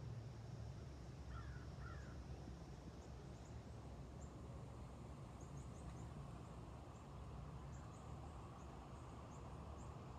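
Faint garden birdsong: scattered short high chirps over a steady low rumble, with two brief lower calls, crow-like, about one and a half seconds in.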